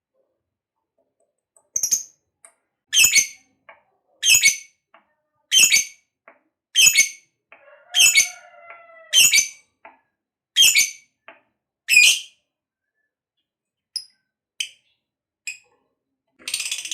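Lovebird giving a series of short, shrill calls, about one every second and a quarter, eight in a row, followed by a few faint chirps. Near the end a dense, continuous chatter begins.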